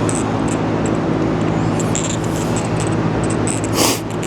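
A steady low machine hum with several fixed tones, and a short burst of noise near the end.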